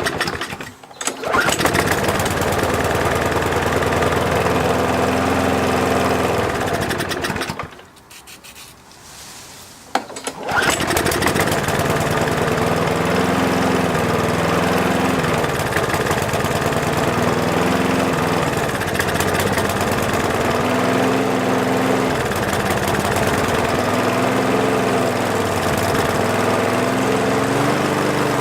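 McCulloch petrol lawn mower engine starting and running for about six seconds, then dying. About ten seconds in it starts again and keeps running, its speed rising and falling every two or three seconds.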